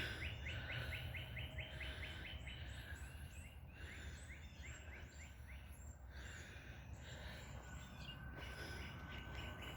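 Several wild birds singing: a quick run of repeated notes, about four a second, at the start, then scattered chirps and whistled calls, and one held note near the end.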